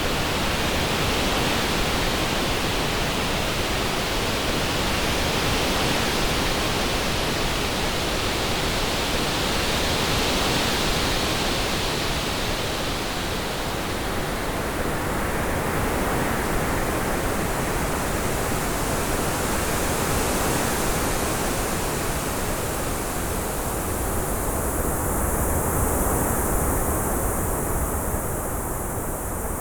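Synthetic orange noise: a steady hiss across the whole range, processed to sound like wind circling the head. Its tone shifts slowly, with a brighter upper-middle band for the first ten seconds or so, then a hollowed-out middle and a brighter top end from about halfway on.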